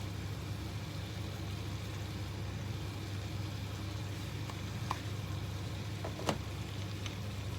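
A steady low hum, with a few light clicks about five, six and seven seconds in.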